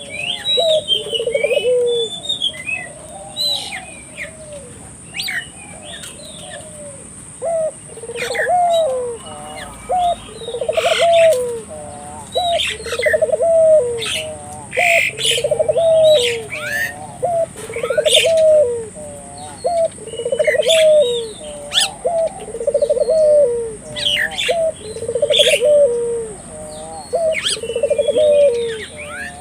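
Ringneck dove (burung puter) cooing over and over in a steady rhythm, about one coo every two seconds. Smaller birds chirp higher up, over a steady high-pitched hiss.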